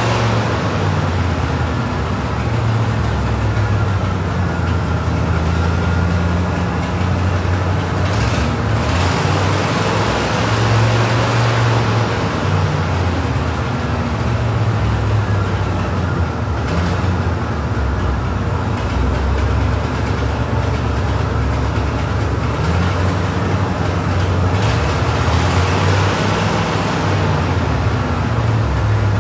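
Classic Cadillac V8 engines idling steadily inside a parking garage, a low, even rumble.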